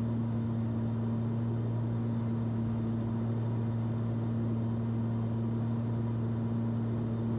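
Twin piston engines and propellers of a Cessna 340 droning steadily in flight, heard in the cabin as an even low hum with two constant tones.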